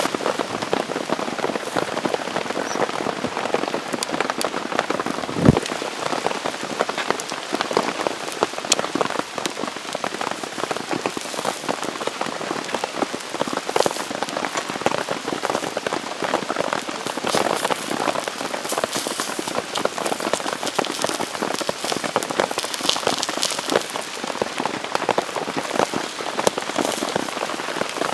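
Steady rain falling, a dense hiss of many small drops hitting a surface, with one single thud about five and a half seconds in.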